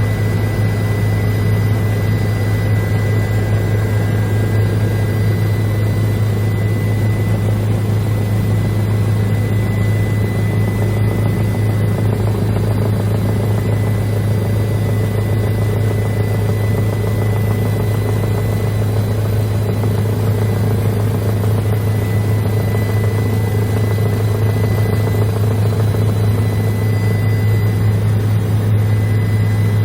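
Helicopter in steady flight heard from inside the cabin: a loud, unchanging engine and rotor drone with a strong low hum and a faint high whine over it.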